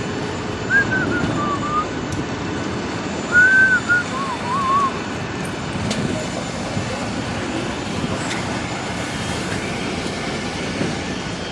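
Steady rumble and hiss of aircraft engines running. Two short whistle-like phrases sound over it, about one second and three and a half seconds in.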